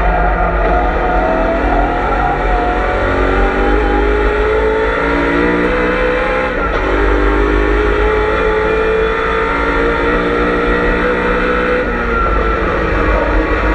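BMW M3 E92 race car's V8 heard on board at full throttle, the engine note climbing steadily through the revs. About six and a half seconds in the pitch drops sharply at an upshift and climbs again, then falls away near the end as the driver lifts off.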